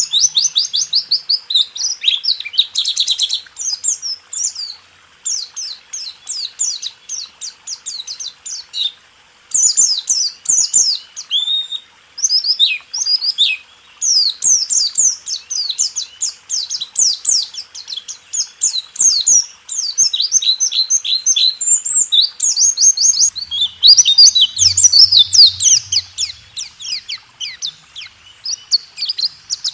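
White-eye (pleci) singing a fast, rolling song of rapid high chirps in long runs, broken by a few short pauses.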